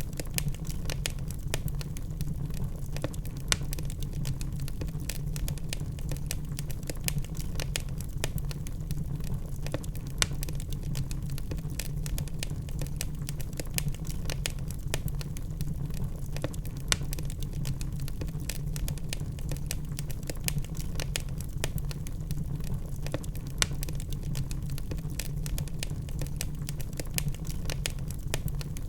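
Log fire crackling in a fireplace: a dense, irregular stream of sharp pops and snaps over a steady low rumble of the flames.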